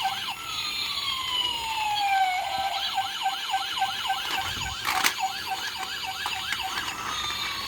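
Toy police car's electronic siren playing through its small speaker: a fast warble of about five rising chirps a second, with a long falling wail tone near the start and again near the end. A sharp knock about five seconds in.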